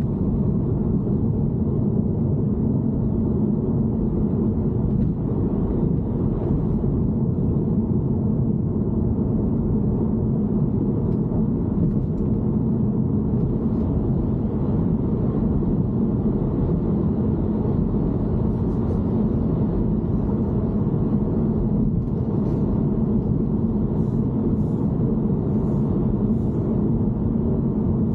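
BMW E90 3 Series running, a steady low rumble that holds the same pitch and level throughout.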